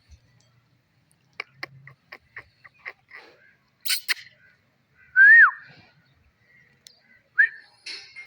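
Pet parrot calling: a run of quick clicks, a short harsh squawk, then a loud whistled note that rises and falls, and a shorter whistle near the end.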